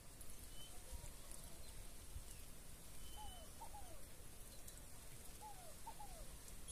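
Faint bird calls: two groups of short down-slurred notes, one around the middle and one near the end, with a few faint high chips.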